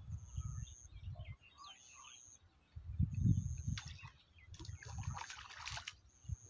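Small birds chirping in short calls, over a low rumble on the microphone that comes and goes, loudest about three seconds in.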